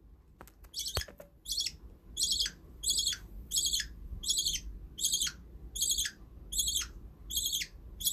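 Ten-day-old budgerigar chick cheeping over and over, a short high-pitched call about every 0.7 seconds, each dropping in pitch at its end. A couple of faint clicks near the start.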